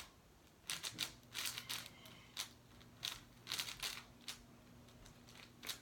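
Large plastic speed cube being turned by hand: irregular clusters of quick clicking, rattling layer turns. The cube is non-magnetic and set tight so it won't pop.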